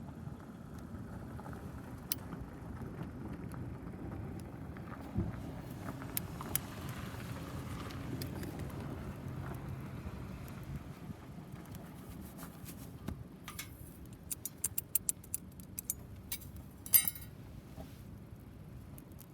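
Wood fire burning in a tower-type fire pit, a low steady rumble with scattered sharp crackles. Near the end comes a quick run of light clinks and clicks, the loudest just before the end.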